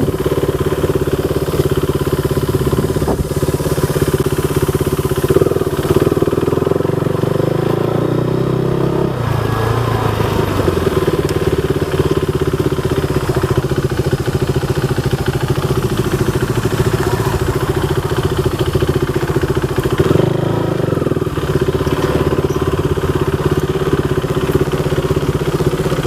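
Single-cylinder motorcycle engine running steadily under way, with a drop in pitch about nine seconds in.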